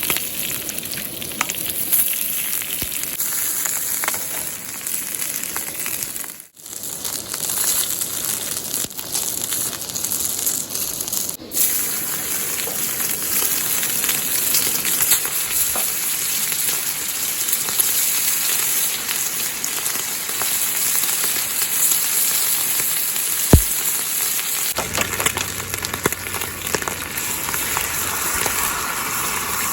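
Oil sizzling and frying in a MUURIKKA campfire frying pan: a steady crackling hiss, with one sharp tap about two-thirds of the way through.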